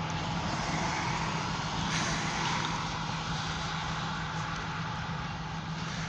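Freight train of grain hopper cars rolling past: a steady rumble and rushing noise with a constant low hum underneath.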